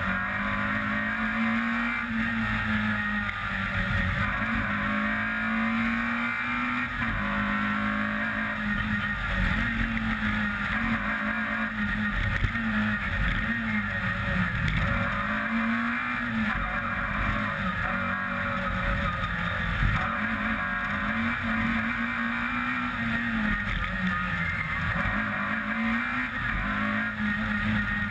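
Peugeot 106 rally car's four-cylinder engine driven hard, its note climbing and dropping back again and again through gear changes and throttle lifts, over steady road and wind noise.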